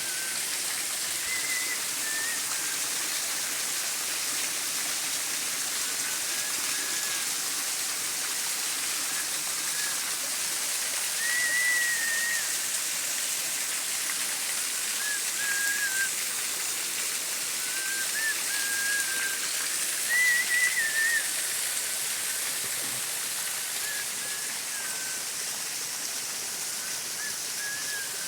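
Steady rushing water hiss, with short wavering chirping calls every few seconds, the loudest about twelve and twenty seconds in.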